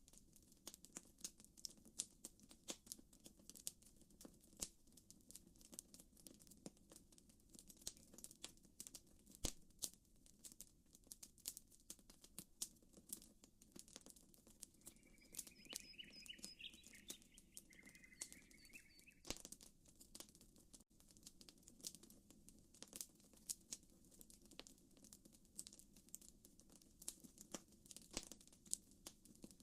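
Campfire crackling, with irregular sharp pops and snaps throughout. A bird chirps briefly about halfway through.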